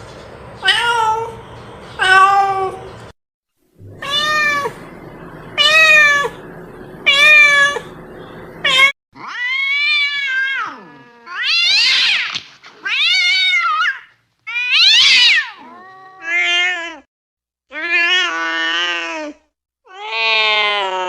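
Domestic cats meowing over and over, one call roughly every second or so, each meow bending up and down in pitch. The first few meows are short and come over a steady background hiss. After a break the later meows are longer, higher and clearer, several of them rising then falling.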